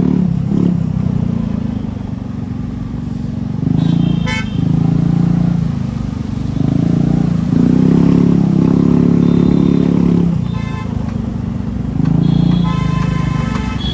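Traffic in a jam: vehicle horns honking several times, briefly around 4 s and 11 s and longer near the end, over the running engines of cars and motorcycles.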